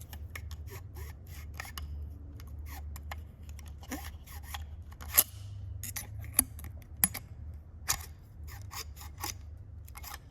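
Irregular sharp metallic clicks and clinks of hand tools handled on an engine's top end, over a steady low hum.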